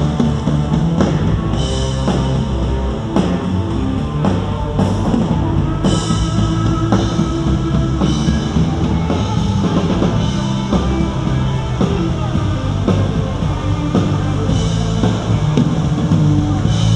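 Rock band playing live, with a drum kit keeping a steady beat of hits and cymbals under sustained pitched instruments.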